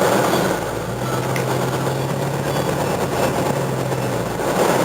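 Car engine idling in a stationary traffic queue, heard from inside the cabin: a steady low hum over road and cabin noise that fades out about four seconds in.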